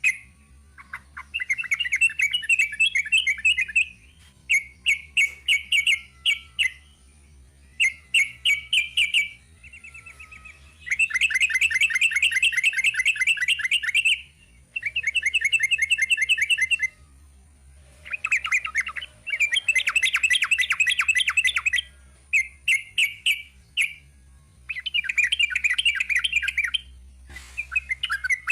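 Trucukan (yellow-vented bulbul) singing its long rapid-trill 'ropel' song: bursts of fast, evenly repeated notes, each phrase lasting one to three seconds with short pauses between them. The longest, loudest trills come in the middle and a little later on.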